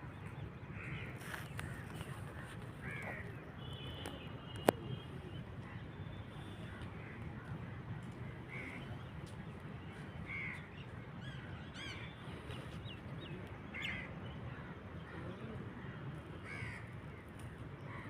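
Birds calling in short, separate calls every second or two over a steady low background hum, with one sharp click a little under five seconds in.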